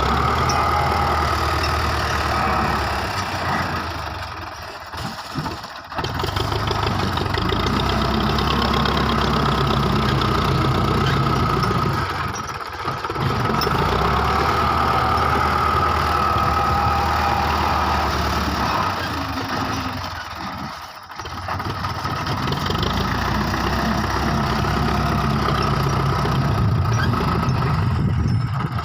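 Belarus 510 tractor's diesel engine running steadily, its sound dropping away briefly three times.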